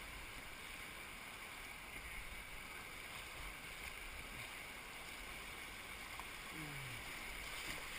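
Faint, steady rush of flowing creek water around the canoes.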